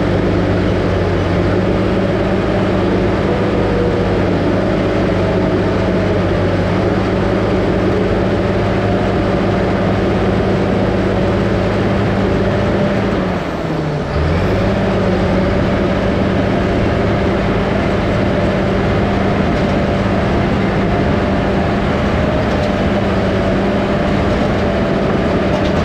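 Diesel engine of a small 450 crawler dozer running steadily under work, its pitch dipping briefly and recovering about halfway through.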